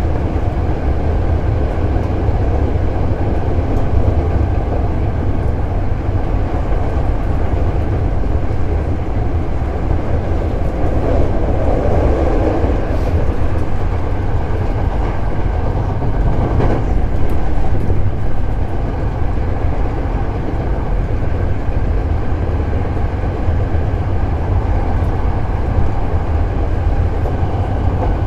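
Hankyu 7000 series electric train running, heard from inside the car: a steady low rumble of wheels on the rails, with a faint knock about seventeen seconds in.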